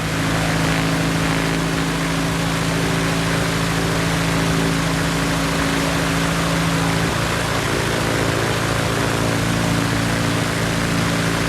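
DR107 aerobatic airplane's piston engine and propeller running steadily on its first ground run, with a slight change in pitch about seven seconds in.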